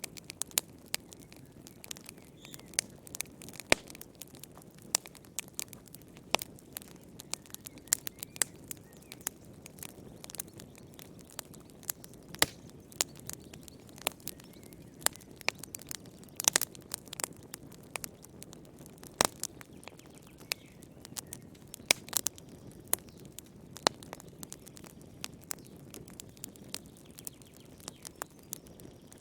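Wood fire crackling in a fireplace: irregular sharp pops and snaps, several a second, over a soft low rumble of the burning logs.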